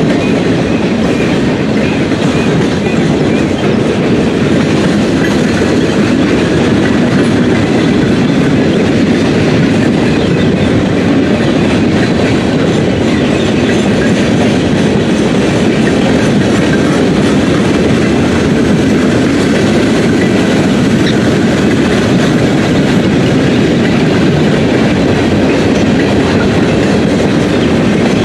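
Freight train cars rolling past at track side: a steady rumble of steel wheels on the rails that holds even throughout.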